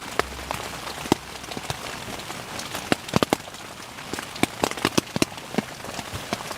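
Water drops tapping irregularly on the tent's fabric, several sharp ticks a second over a faint steady hiss.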